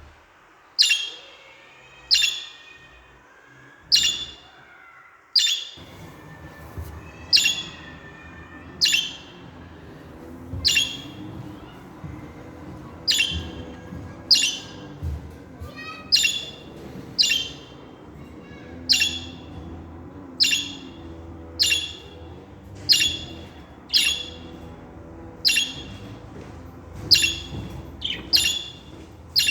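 Pet budgerigar giving short, sharp squawking calls over and over, about one every second and a half.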